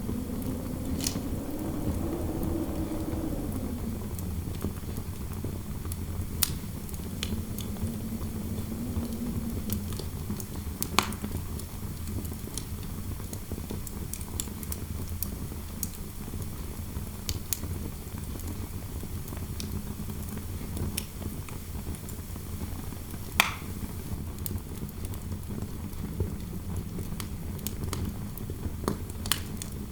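Fireplace crackling with a low steady rumble and scattered sharp pops, the loudest a little over two-thirds of the way in. A soft wind howl through the room rises and falls in the first few seconds and again near the middle.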